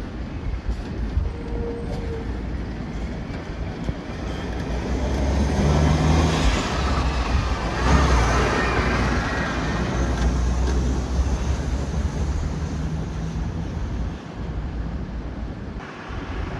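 Road traffic passing in strong wind, with a low engine drone from a large vehicle and wind rumbling on the microphone. A broad rush of noise swells and peaks about eight seconds in.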